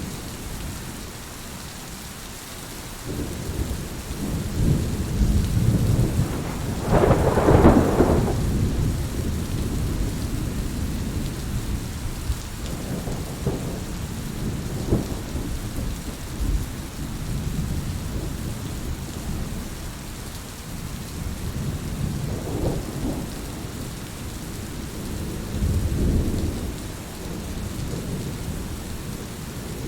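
Heavy rain falling with a steady hiss, under rolling thunder that swells and fades several times. The biggest peal comes about seven seconds in, with smaller rumbles around thirteen, twenty-three and twenty-six seconds.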